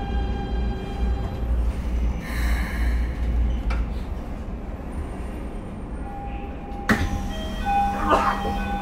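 Interior running sound of a Keikyu New 1000 series electric train. A steady low rumble runs through the first half; a sharp click comes about seven seconds in, followed by a steady electrical tone and short stepped higher tones.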